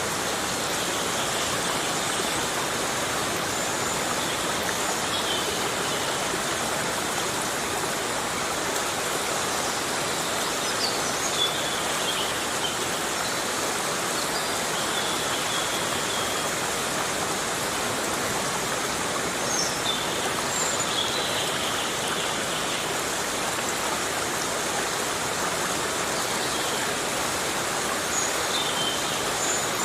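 Heavy rain falling on a tropical forest, a steady, even hiss, with a few short high chirps now and then.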